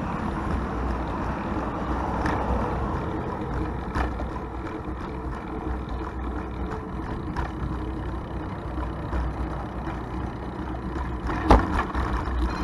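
Steady wind rumble and road noise from a bicycle on the move, with traffic along the road. One sharp knock comes near the end.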